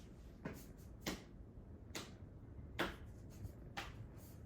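A handful of short, sharp clicks or taps, about five at uneven spacing, the loudest a little before three seconds in.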